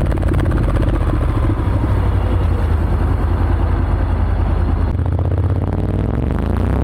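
Honda X-ADV 750's parallel-twin engine running through an SC-Project SC-1R slip-on exhaust with the dB killer fitted, giving a steady exhaust note. About five seconds in the note changes, and near the end it starts to rise in pitch.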